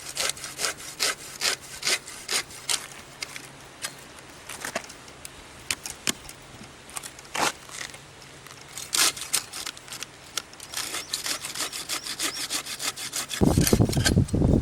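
Hand-sawing of wood, as in cutting firewood for a campfire: short, sharp back-and-forth strokes, quick at first, sparse in the middle and dense again later. A louder low rumble comes in near the end.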